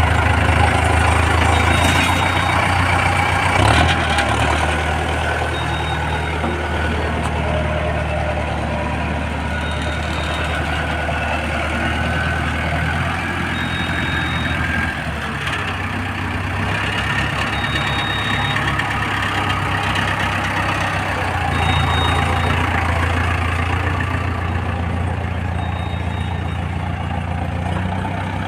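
Mahindra Arjun Novo 605 DI-i tractor's diesel engine running steadily at low speed, its note dropping a little about halfway through and rising again later. A short high beep repeats about every four seconds.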